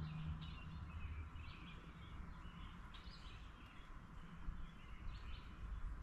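Faint birds chirping, scattered short calls throughout, over a low outdoor rumble.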